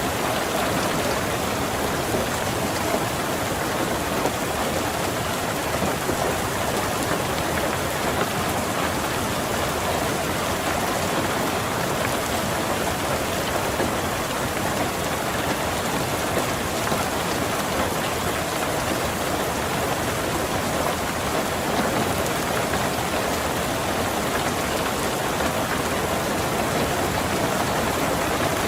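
Steady rain falling on a car, an even hiss that holds level throughout.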